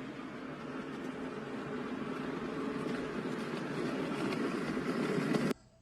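Steady road and traffic noise from a moving car, recorded on a phone, with no speech; it cuts off suddenly near the end.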